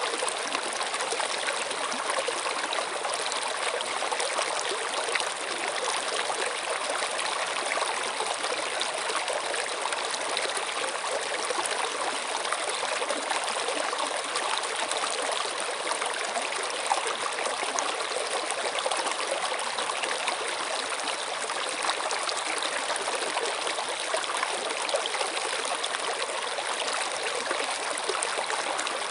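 Running water flowing steadily: a continuous, even rush without breaks.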